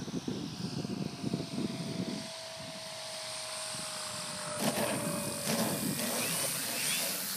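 A radio-controlled model airplane's motor and propeller whine as it flies past, the pitch sagging slowly. Wind buffets the microphone for the first couple of seconds, and there are two short knocks near the middle.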